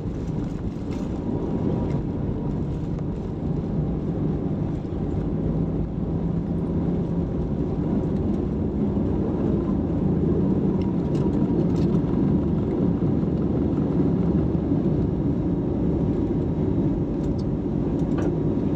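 Airliner engines running at takeoff power: a steady low roar with a faint hum, growing a little louder about halfway through.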